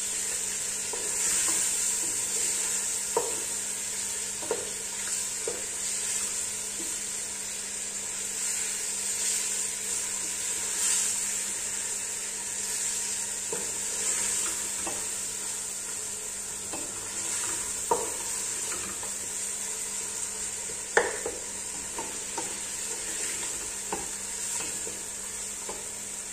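Chicken pieces frying in oil with onion, garlic and ginger in an aluminium pot, sizzling steadily while a wooden spoon stirs them, with a few sharp knocks of the spoon against the pot.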